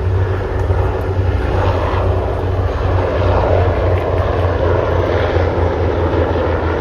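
A C-130J Hercules's turboprop engines, with a Jolly Green II rescue helicopter, passing during an in-flight refuelling demonstration: a steady low drone with a rushing noise that swells in the middle and eases near the end.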